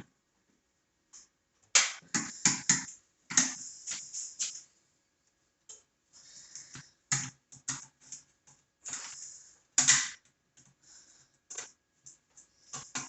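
Hands working a charger cord and its plastic strain relief: irregular clicks, snaps and short scrapes of plastic, loudest about two and ten seconds in.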